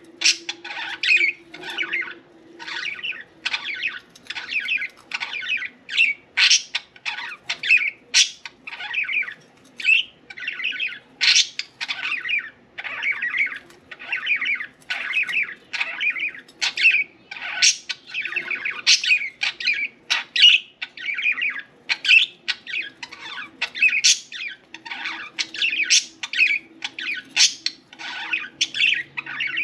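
Budgerigars chattering continuously: rapid short chirps, warbles and squawks, several a second, with no pauses.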